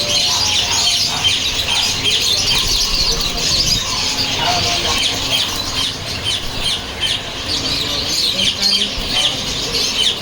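Birds chattering continuously: a dense run of rapid, short, high chirps, with now and then a lower squawk.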